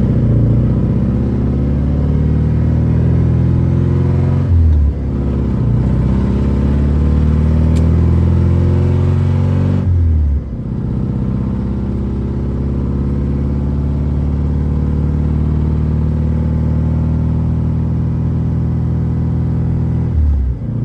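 Straight-piped four-cylinder engine of a BMW E36 fitted with a cheap aftermarket muffler, pulling loudly through the gears. Its pitch climbs, then breaks off briefly for a gear change about four and a half seconds in and again about ten seconds in, and it runs on steadily until another short break for a shift near the end.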